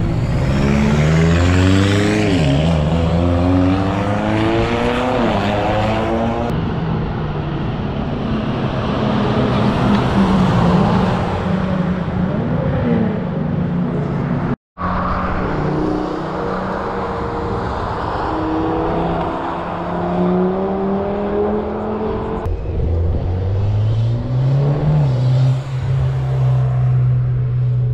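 Car engines at a race track, revving and passing again and again, the pitch climbing as they accelerate and falling away as they go by. There is a brief moment of silence about halfway through, and a steadier engine note near the end.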